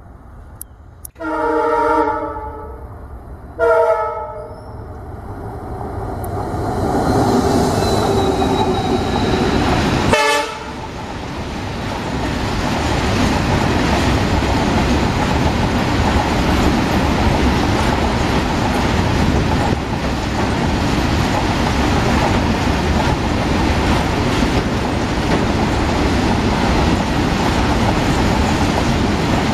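Two Indian Railways diesel freight locomotives, a WDG4D and a WDG4 coupled in multiple, sound their horn twice, one long blast and one short. Their EMD two-stroke V16 engines then rise in volume as they approach and pass. After that comes the steady rumble and clickety-clack of a long rake of covered freight wagons rolling by.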